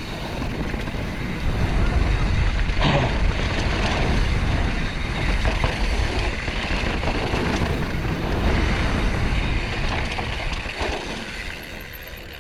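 Mountain bike riding fast over a rocky technical trail: wind buffeting the microphone with rattling and knocks from the bike over rocks, including a sharp knock about three seconds in. It grows quieter near the end as the bike slows.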